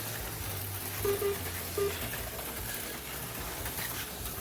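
HO scale slot cars running on the track: a steady low hum with a light mechanical rattle, and two short tones about a second and nearly two seconds in.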